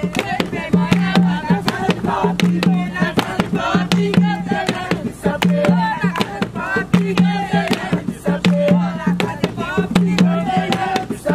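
Jongo music: hand drums struck in a steady rhythm under a group of voices singing, with a low pitched tone sounding again and again beneath them.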